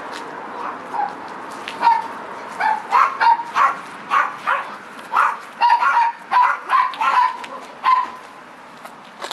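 A dog barking repeatedly, about a dozen short barks in quick irregular succession, over a steady background hiss.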